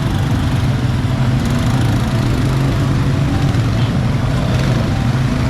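Quad bike (ATV) engine running steadily with a low, even drone.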